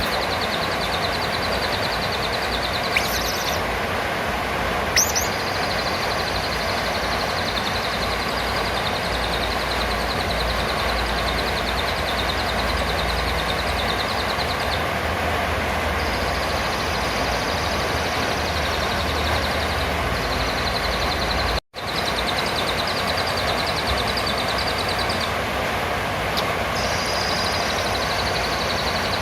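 Blue-crowned hanging parrot (serindit) calling: a continuous high, rapid buzzing trill with two sharp high chirps about three and five seconds in, over a heavy steady hiss. The sound cuts out for an instant about two-thirds of the way through.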